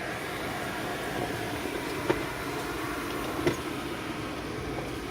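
Steady rumble inside a car cabin with the windows up, with two small clicks about two seconds and three and a half seconds in.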